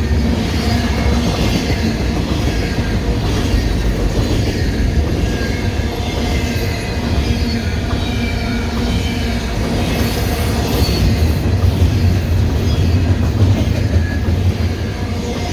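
Canadian Pacific intermodal freight train rolling past at speed: a steady loud rumble of cars on the rails, with clickety-clack over rail joints and wavering wheel squeal.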